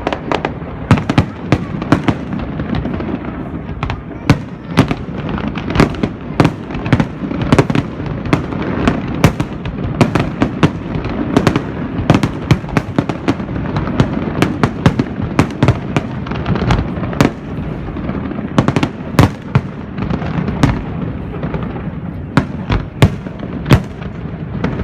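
Fireworks and firecrackers going off nonstop: many sharp bangs every second over a continuous crackling rumble.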